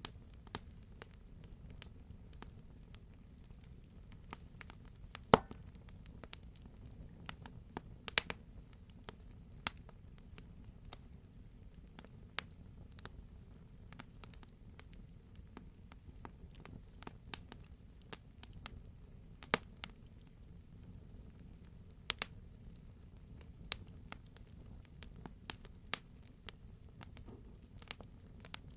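Campfire burning: a low steady rumble of flames under scattered sharp crackles and pops from the logs, a few louder pops standing out at irregular intervals.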